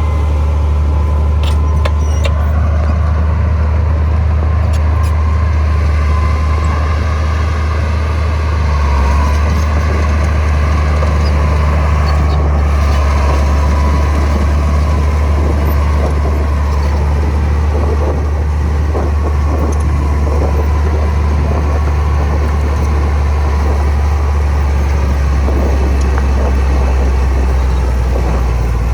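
Heavy diesel earthmoving machine running steadily with a deep, even engine drone, with a few light clicks in the first seconds.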